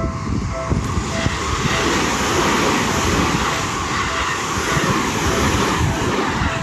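Seibu 30000 series electric express train passing through a level crossing at speed: a loud, steady rush of wheel and rail noise with wheels clattering over the rail joints. The crossing's warning bell can be heard pulsing at the start before the train drowns it out.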